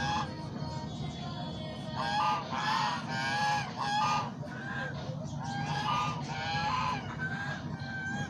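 A flock of waterfowl honking: bursts of short, pitched calls come in clusters, one about two to four seconds in and another about six to seven seconds in, with single calls near the end. A steady low hum runs underneath.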